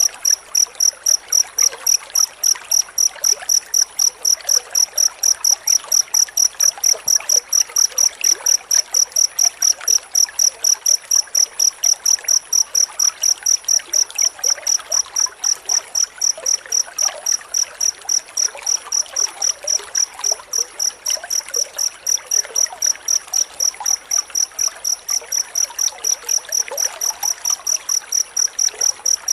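Cricket chirping steadily and densely, a high, even pulse about three chirps a second without a break.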